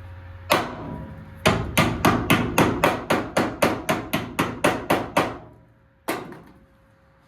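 Hammer beating on a car's sheet-metal cowl panel to fit it for welding: a single blow, then a fast run of about fifteen blows at about four a second, and one last blow.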